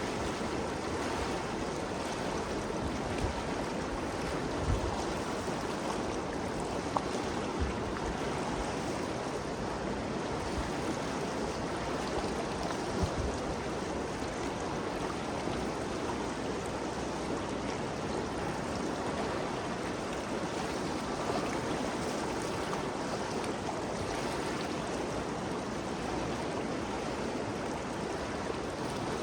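Ganges River flowing in a steady rush of water, with a few brief low thumps.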